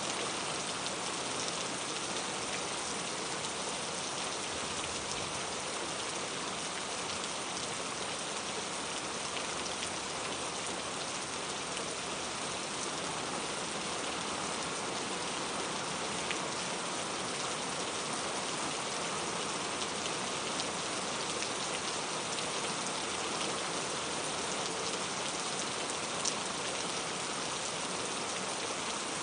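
Steady rain falling and pattering on surfaces, an even hiss with occasional single drops standing out, one of them sharper about 26 seconds in.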